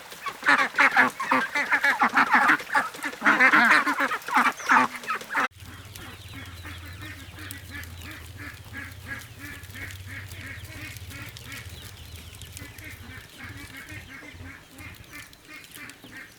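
A flock of ducks quacking loudly and densely. About five seconds in, it cuts to quieter, evenly repeated quacking, about two calls a second, over a steady low hum.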